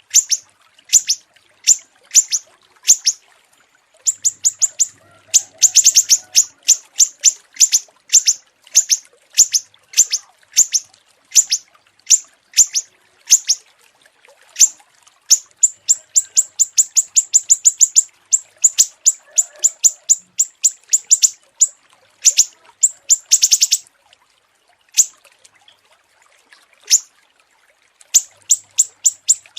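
Small songbirds chirping, a recorded masteran tutor track for contest birds: sharp high notes repeated about two a second, speeding up at times into quick runs of notes, broken by a few short pauses.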